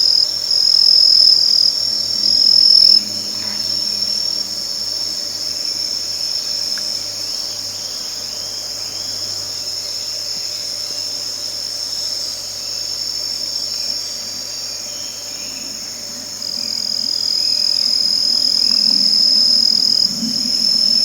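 Chorus of singing insects in the grass: several steady high-pitched trills overlapping, some breaking off and resuming.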